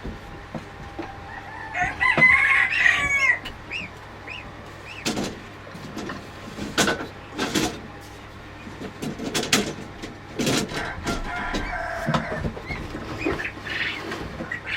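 Chickens calling, with a rooster crowing once about two seconds in. A second call comes near the end, and a run of short, sharp sounds falls between them.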